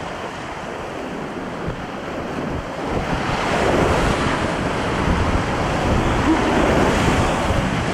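Rushing whitewater rapids, a steady roar of fast water that grows louder about three seconds in, with some wind noise on the microphone.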